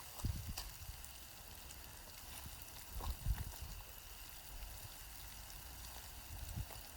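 Steady hiss of rain with a few low thumps: one just after the start, one about three seconds in, and one near the end.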